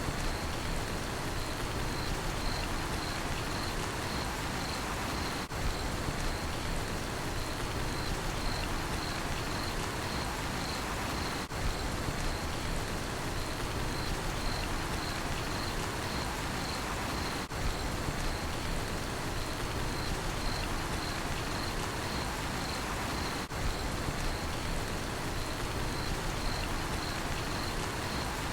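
Steady rain falling, with a cricket chirping in an even pulsing rhythm throughout. The sound drops out briefly about every six seconds.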